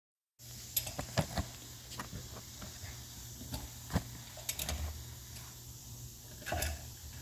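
Scattered light clicks and small metallic knocks from tools and tractor clutch parts being handled, over a steady low hum. The sound begins after a brief dead gap at the very start.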